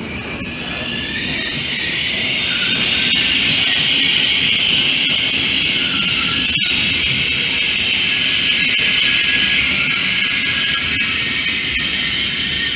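A train passing on the line: a steady rush of wheels on rail that swells over the first couple of seconds and then holds, easing slightly near the end.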